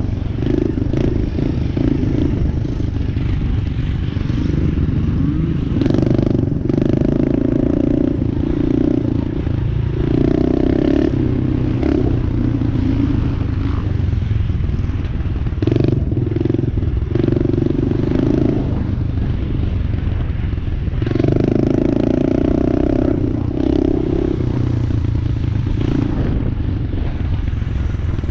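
Dirt bike engine running hard, revving up and falling off again every second or two as the throttle is worked and rolled off, with occasional clattering knocks.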